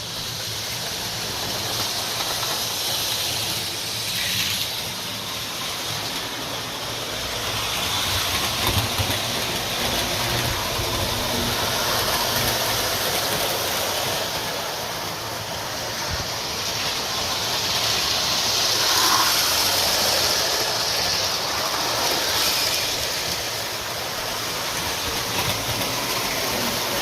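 Lionel model train running along its track: a steady rolling, hissing noise of motor and wheels that swells and eases a few times as it passes.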